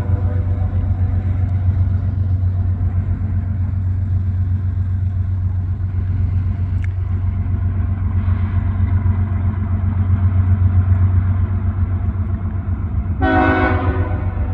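CSX GE ES44AC-H diesel locomotive and its trailing unit running with a steady, loud low drone. Near the end comes one short blast of the locomotive's five-chime Nathan K5HL air horn, about a second long.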